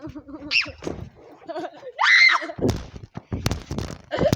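A child's high-pitched squeals: a short rising one about half a second in and a louder, longer one around two seconds in. A run of short knocks and thumps follows near the end.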